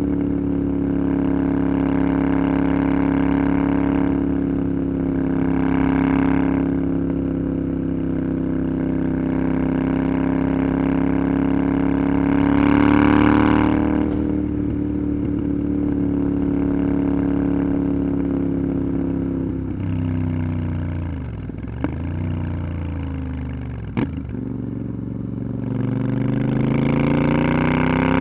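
Motorcycle engine running at steady revs, with the pitch rising for a moment about halfway. About three-quarters through it dips sharply twice, with a click, then climbs again near the end as the bike accelerates.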